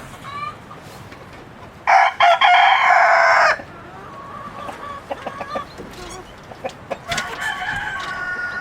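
Chickens: a rooster crows once, loudly, about two seconds in, with hens clucking around it and another drawn-out call near the end.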